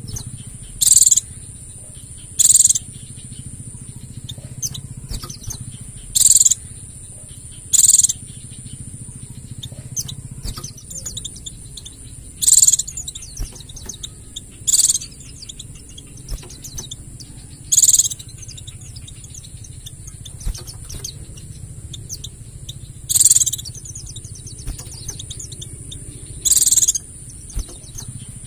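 White-eye (pleci) song: a soft, rapid chattering twitter broken every few seconds by short, loud, high-pitched calls, about nine in all, over a steady high hiss.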